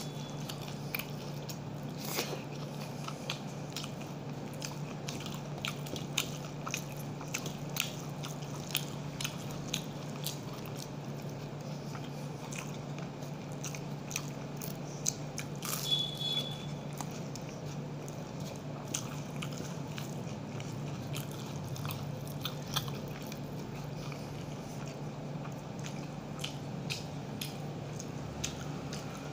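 A person chewing a mouthful of rice and fried battered leaf pakoras, with many small crunchy clicks and wet mouth sounds, over a steady low hum. A brief high chirp sounds about sixteen seconds in.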